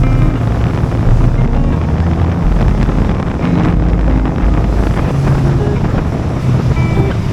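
Car driving with a steady low engine and exhaust drone and wind buffeting the microphone, under a background music track.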